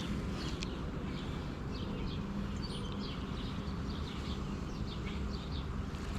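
Outdoor ambience of birds chirping over a steady low rumble.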